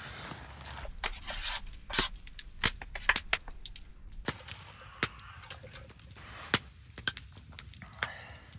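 Wood campfire crackling, with irregular sharp pops over a faint hiss.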